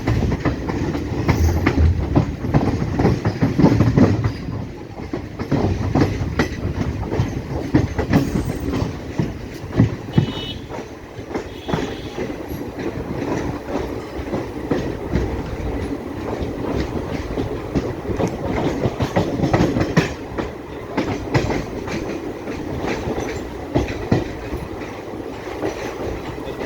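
MEMU electric multiple-unit passenger train running on the track, its wheels clicking over rail joints with a steady rumble.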